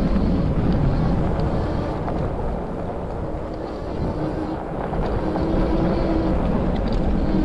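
Wind buffeting the microphone over a low rumble of road noise on a moving e-bike. A faint steady hum comes in about halfway through.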